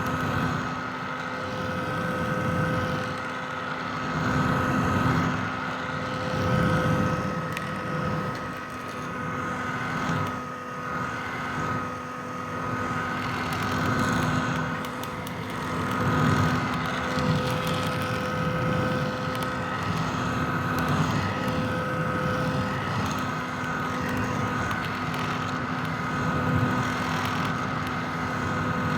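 Vintage hair dryer running steadily: rushing airflow over a constant motor whine, its level swelling and easing slightly every few seconds.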